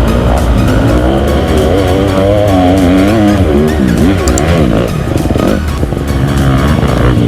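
Off-road vehicle engine revving hard, its pitch rising and falling again and again.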